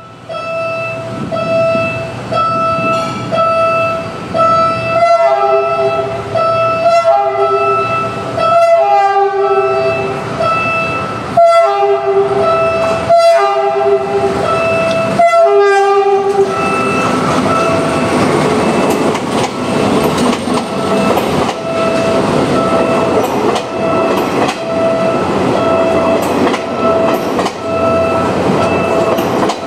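Philippine National Railways train sounding its horn in about six short blasts over a steady repeating beep, then passing close with loud wheel and rail noise from about halfway through.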